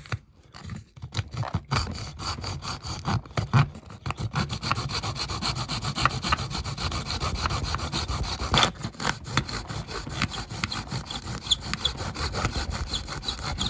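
Hand hacksaw cutting through the plastic interior piece of a diecast model car, with rapid, steady back-and-forth strokes.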